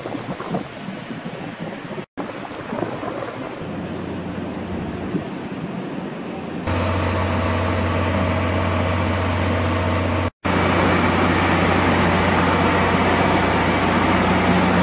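A stationary train at a station platform, its machinery giving a steady low hum over a wash of platform noise. The sound breaks off and changes abruptly twice, and the hum grows louder about halfway through.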